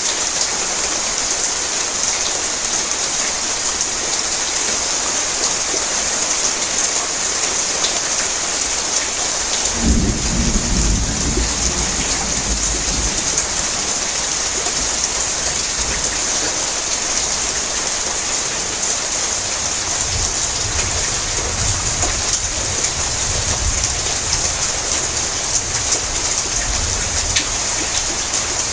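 Heavy rain falling on a tin roof: a dense, steady hiss. A low rumble of thunder comes in about ten seconds in, and fainter rumbles follow about twenty seconds in and near the end.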